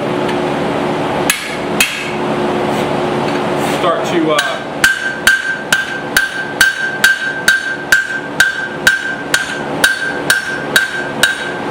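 Hand hammer blows on hot steel on an anvil while drawing down the cheeks of a small hammer head: two single blows, then from about four seconds in a steady rhythm of about two blows a second, each with a clear ring from the anvil.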